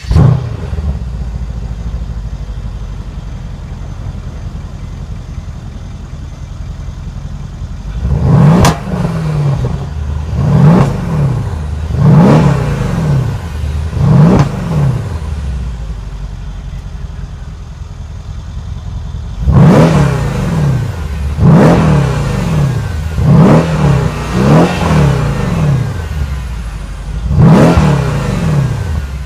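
Mercedes-AMG E63 S's 5.5-litre twin-turbo V8 idling steadily, blipped nine times in two sets, four then five, each rev rising quickly and falling back to idle. It comes in loud at the very start, then settles to the idle.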